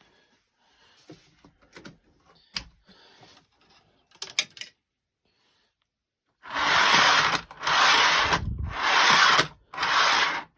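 Faint clicks and handling at first, then four loud rushes of scraping, rubbing noise, each under about a second long, starting about six and a half seconds in.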